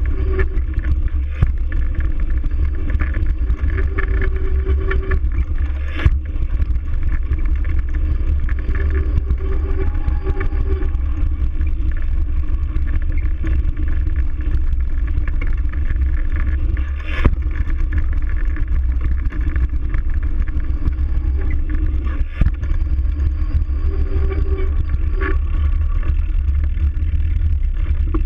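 Steady low rumble of wind buffeting and tyre noise from a moving bicycle, picked up by a GoPro rig, with three sharp knocks spread through it.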